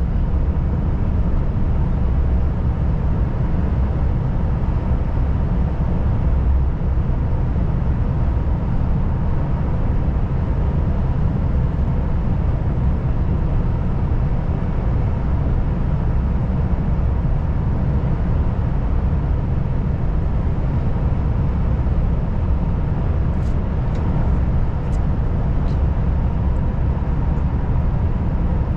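Volvo FH540 truck's 13-litre straight-six diesel running steadily on the road, a constant deep rumble of engine and road noise with a faint steady whine. A few faint clicks near the end.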